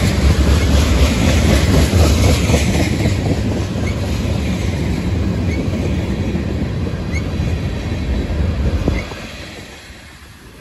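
Tank cars and covered hoppers of a Union Pacific freight train rolling past close by: a steady rumble and clatter of steel wheels on the rails. The low rumble falls away sharply about nine seconds in.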